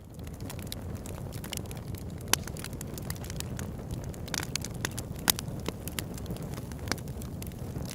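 Wood campfire crackling: irregular sharp pops and snaps over a steady low rumble, with two louder pops about two and five seconds in.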